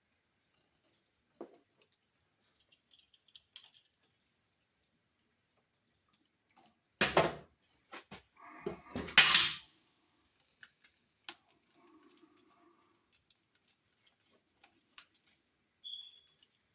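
Scattered light clicks and handling noises of hand tools and copper wires being worked at an outlet box, with two louder knocks about seven and nine seconds in.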